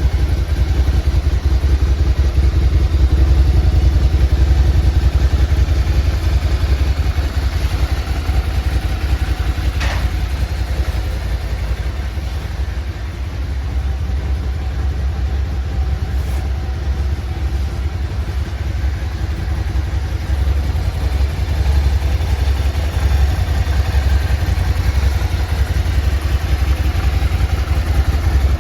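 Suzuki SV650's 645 cc V-twin engine idling steadily, with a deep, even pulse.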